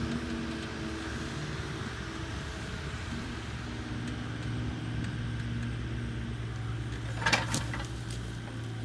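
Diesel engine of compact earthmoving equipment running steadily under work, with a wavering whine over the engine note. A short, sharp clatter of knocks comes about seven seconds in.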